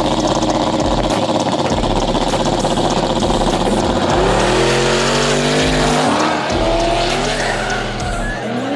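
Race car engine at full throttle down a drag strip: after a steady, loud engine noise, the pitch climbs steeply about four seconds in, drops at a gear shift about six seconds in, and climbs again before another shift near the end.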